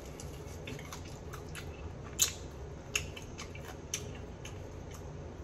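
Close-up eating of an air-fried chicken wing: small wet mouth clicks and smacks while chewing and biting. Three sharper clicks stand out, about two, three and four seconds in.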